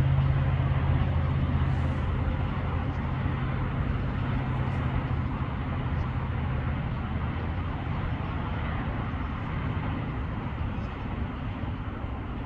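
A motor vehicle's engine running as a low steady drone that fades away over the first half, over a constant wash of distant traffic noise.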